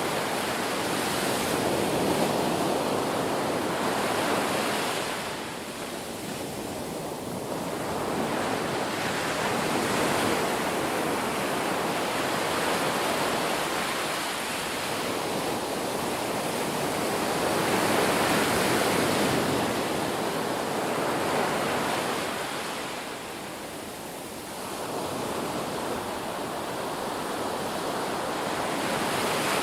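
Ocean surf: a continuous rush of waves breaking and washing in, swelling and easing in slow surges every several seconds.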